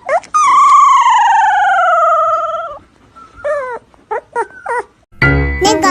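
A dog howling: a short yelp, then one long howl sliding down in pitch, followed by a few short yips. Music starts near the end.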